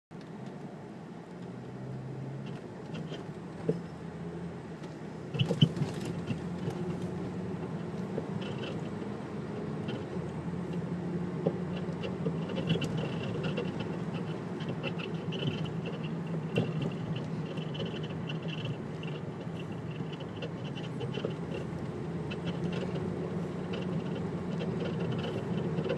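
A 2002 Volvo S60's engine runs over a steady hum while still cold. From about five seconds in, a metallic clatter from the engine compartment comes and goes in short bursts. The owner says it happens only with a cold engine, on acceleration, and worse off the throttle.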